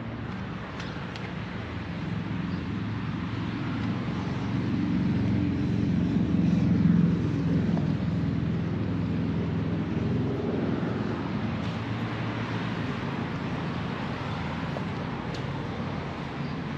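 Low engine rumble of a passing vehicle, swelling to its loudest about seven seconds in and then slowly fading.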